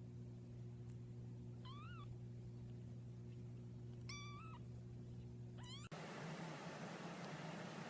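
A domestic cat meowing faintly: three short, high meows about two, four and five and a half seconds in, over a steady low hum that gives way to a soft hiss about six seconds in.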